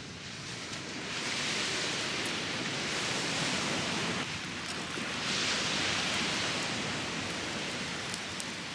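Rushing water, a hissing spray or wash that swells up twice for a few seconds each time.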